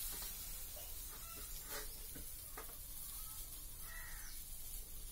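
Faint, steady sizzle of a ragi adai (finger-millet flatbread) cooking on a hot flat pan.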